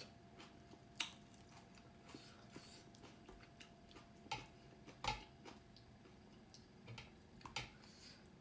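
Close-miked eating sounds: a person chewing dhido with chicken curry, with scattered wet mouth clicks and smacks at irregular intervals, the loudest about a second in and again around five seconds in.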